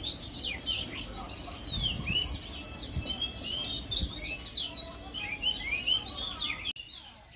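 Many songbirds chirping and twittering together, a dense mix of short, quick falling notes. Near the end the sound drops suddenly to quieter chirping.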